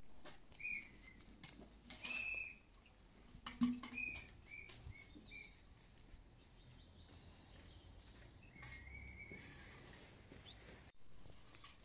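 Small birds chirping: short, high chirps repeated many times, in clusters, with a few light knocks and clicks among them, the loudest about three and a half seconds in.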